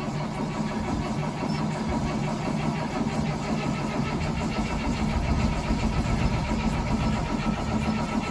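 International DT466E inline-six diesel in a 2003 Blue Bird school bus being cranked by its starter on an 11°F cold start with ether. It turns over at an even, steady rhythm without catching.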